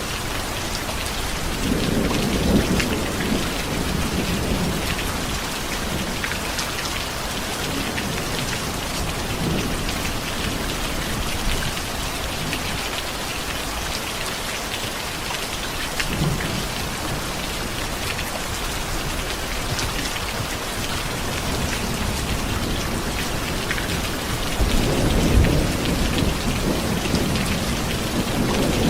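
Steady rain falling, with low rolls of thunder about two seconds in and again near the end.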